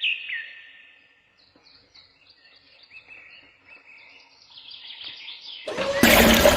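Small birds chirping, with several high calls sliding downward at first and lighter chirps after. A loud burst of noise breaks in near the end.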